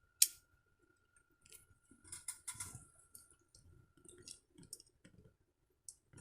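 Small clicks and taps of a die-cast model truck being handled: one sharp click just after the start, then a scatter of lighter clicks and rustles.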